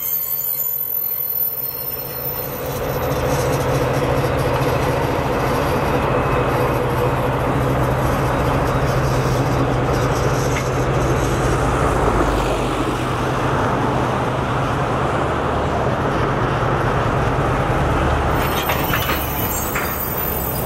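Train with locomotive passing: a steady low engine hum under the rumble of rolling cars, which grows louder about three seconds in and holds steady. A few short, sharp clanks near the end.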